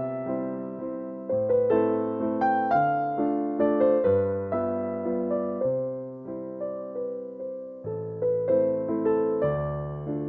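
Slow, gentle piano music: soft sustained chords with notes picked out above them, a new chord struck about every second and a half.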